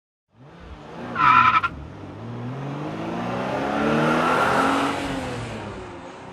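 A car engine revving up and dying away, with a brief high squeal about a second in.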